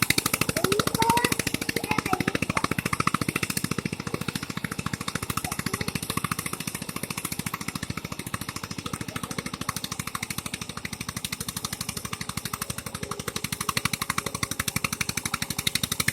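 Eicher 242 tractor's diesel engine running steadily, a fast even train of exhaust beats.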